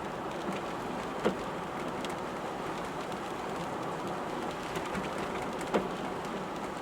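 Rain on a moving car with road noise: a steady hiss broken by scattered sharp taps of raindrops, two louder taps about a second in and near the end.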